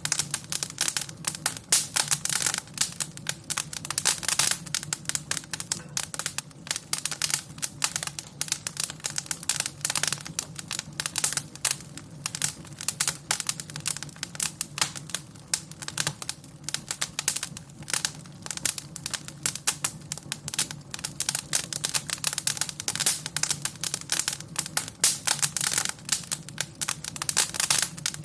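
Wood fire crackling in a fireplace: a dense, irregular run of snaps and pops with a faint low steady rumble underneath.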